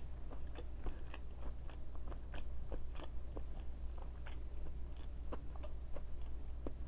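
Close-miked chewing of a breaded fried plant-based chicken nugget: a run of small, irregular crunches and wet mouth clicks, about two or three a second.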